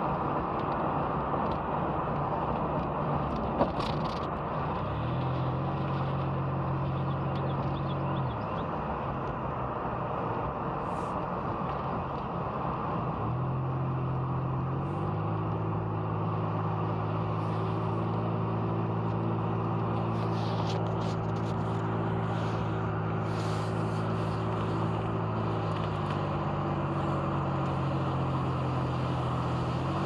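Car driving, heard from inside the cabin: steady road and tyre noise, with a low engine hum that comes in about five seconds in and again from about thirteen seconds until near the end, shifting slightly in pitch.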